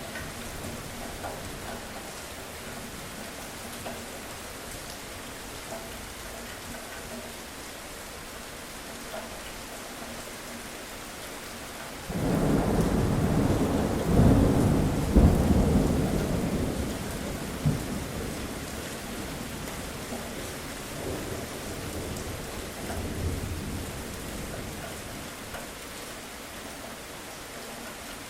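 Steady rain falling, with a rolling peal of thunder that breaks in suddenly about twelve seconds in. It is loudest for a few seconds and then rumbles away, with fainter rumbles after it.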